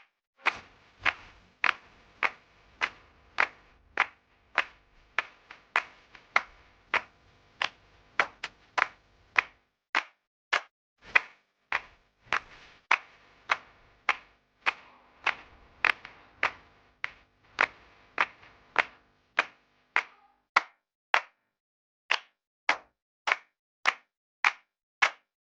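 A steady train of sharp slap-like percussive hits, a little under two a second, with a pause of about a second near the end.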